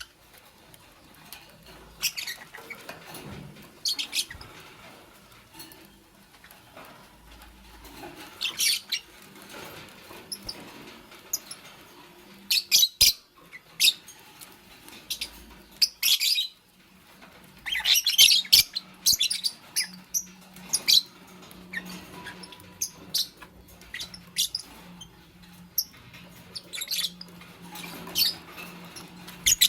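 Fischer's lovebirds chirping: short, sharp, high-pitched chirps in scattered bursts, with a busier flurry just past the middle. A faint steady low hum runs beneath from about two-thirds of the way in.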